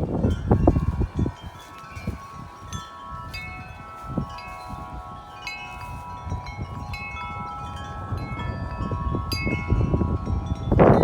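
Several wind chimes ringing in gusty wind, many overlapping tones struck irregularly. Wind buffets the microphone in the first second and again near the end.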